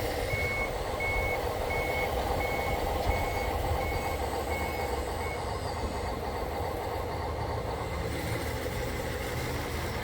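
Reversing alarm beeping, a high steady tone repeated about eight times at roughly a beep and a half per second, stopping about five seconds in, over a steady low rumble.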